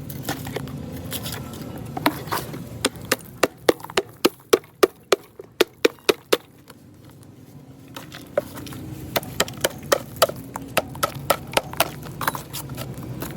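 Repeated sharp knocks on a glued wooden speaker cabinet, about three a second, in two runs with a short pause around the middle, as the box is being knocked apart.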